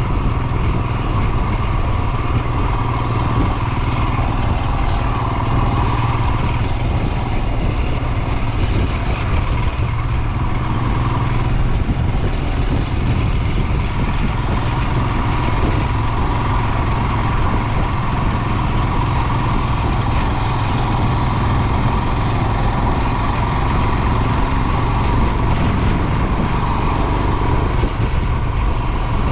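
Royal Enfield Himalayan's 411 cc single-cylinder engine running steadily while the motorcycle is ridden along.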